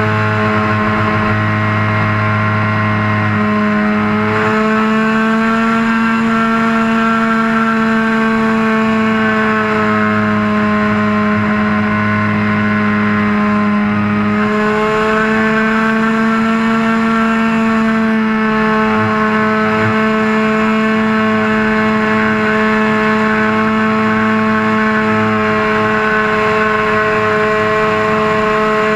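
RC model airplane engine running steadily in flight, heard close up from the wing, its pitch rising slightly a couple of times.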